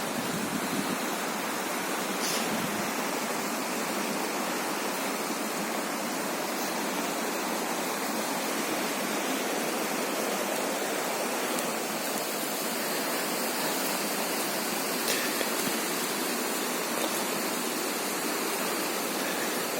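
Turbulent mountain stream rushing steadily, a continuous even hiss of fast-flowing water.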